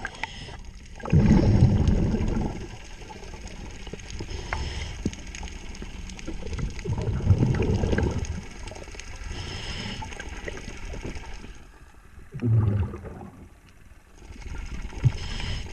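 Underwater scuba breathing: a short hiss of inhalation through the regulator, then a burst of gurgling exhaled bubbles, repeating about every five seconds.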